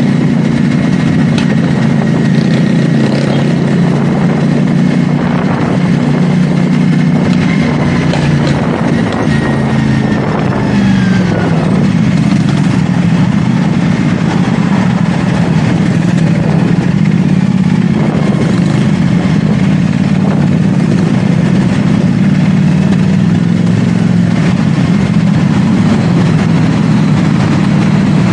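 CFMoto 450SR S's parallel-twin engine running under way at a steady cruise, its pitch dipping briefly about ten seconds in before holding steady again.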